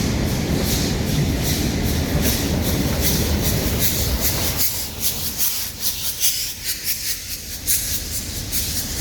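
A train running past, a steady rumble with a quick, regular clatter of wheels on the track. The low rumble falls away about halfway through while the clatter goes on.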